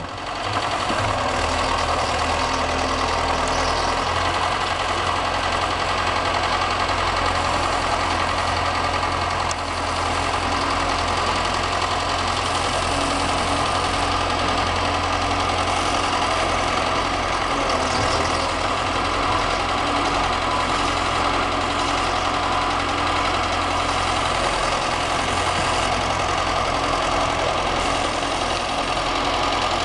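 An engine idling steadily, a continuous even hum with no revving.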